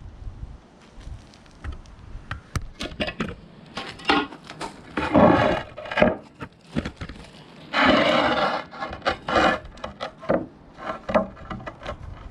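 Knocks and clicks with two scrapes of about a second each, about five and eight seconds in, as paving slabs and tools are handled and shifted.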